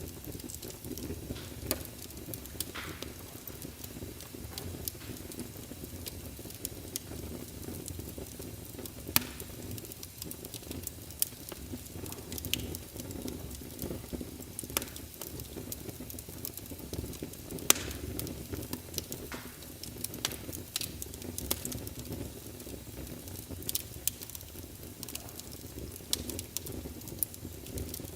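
Wood fire burning in a fireplace: a steady low hiss and rumble of the flames with irregular sharp crackles and pops, a few much louder pops among them.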